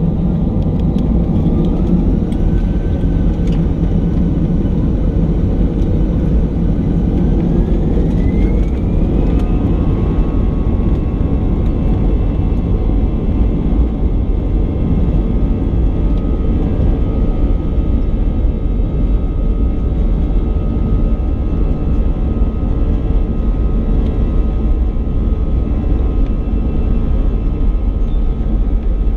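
Airbus A320neo jet engines spooling up to high thrust under a loud steady rumble. The engine whine rises about a second in and again about eight seconds in, then holds steady.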